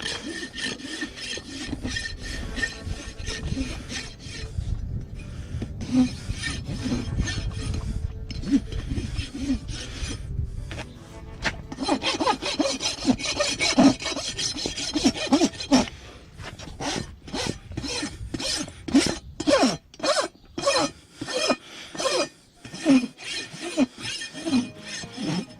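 Hoof rasp filing down a donkey's overgrown hoof in repeated scraping strokes. The strokes run close together at first, then come as separate strokes about one to two a second in the second half.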